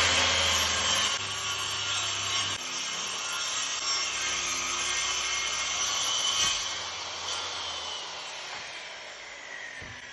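Power saw cutting wood. It starts abruptly, runs loud for about six seconds, then its motor winds down with a falling whine.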